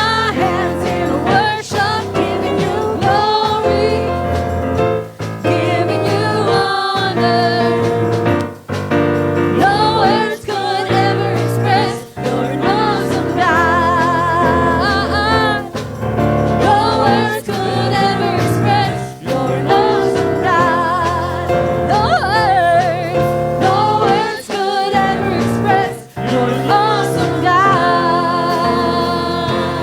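Gospel worship song: singing with vibrato over sustained instrumental chords.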